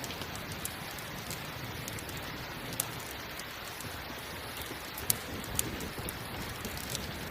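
Steady rain falling, with a campfire crackling over it; a few sharp pops stand out, the loudest about three and five seconds in.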